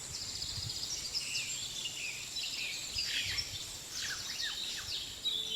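Tropical forest ambience: a steady high-pitched insect drone with scattered high chirps and short trills from birds or small animals.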